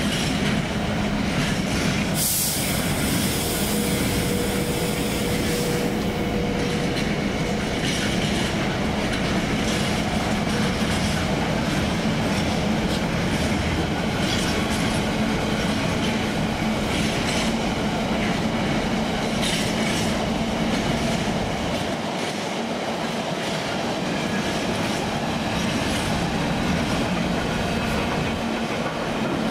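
A train running along the track past the platform with a steady rumble of wheels on rails and a low steady hum. There is a burst of high-pitched wheel squeal about two seconds in.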